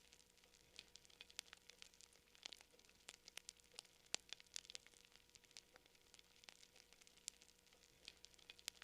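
Campfire crackling quietly: wood burning with irregular sharp pops and snaps, several a second, over a soft hiss.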